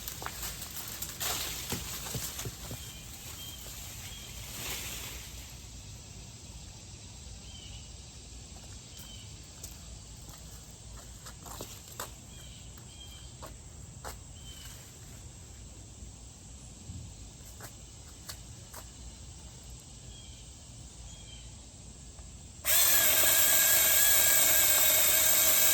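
Quiet outdoor background with scattered light clicks and a few faint chirps, then near the end a cordless mini electric chainsaw starts suddenly and runs with a loud, steady whine.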